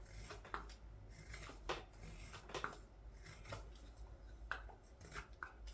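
Carving knife slicing shavings off the back of a green wild cherry scoop: short, crisp cuts at an irregular pace, roughly one or two a second.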